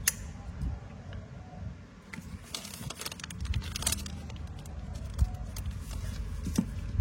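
Light metallic clicks and clinks from a used Zippo-style windproof lighter being handled, with a cluster of quick ticks near the middle, over a low steady rumble.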